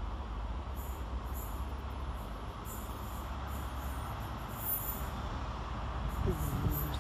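A CrossCountry High Speed Train with class 43 diesel power cars is approaching the station. It makes a steady low rumble, broken by short, very high-pitched squeals that come and go.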